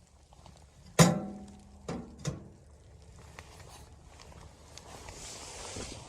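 Three knocks on something that rings briefly after each, the first the loudest, followed by a soft rustling.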